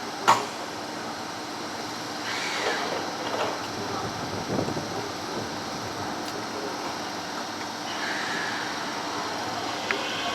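Railway station platform ambience: a steady murmur of station noise with a single short, sharp sound just after the start.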